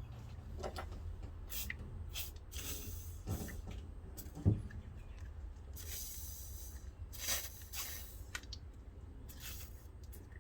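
Handling noises from hands-on work around an engine: short rustles and scrapes, with a sharp knock about four and a half seconds in, over a steady low hum.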